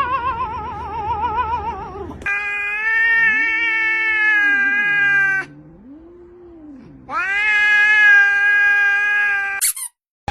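A cat caterwauling in long drawn-out yowls: a wavering one that ends about two seconds in, then two long, steady howls of about three seconds each with a short gap between, where a fainter, lower call rises and falls.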